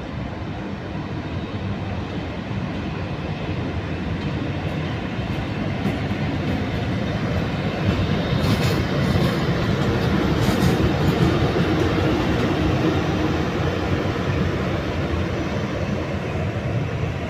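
Train running past close by, its rumble swelling to a peak about halfway through and then easing off a little, with a few sharp clanks near the loudest part.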